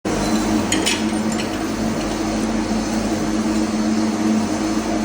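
Steady machinery hum of an engine room, with two steady tones, and a couple of short metallic clinks under a second in.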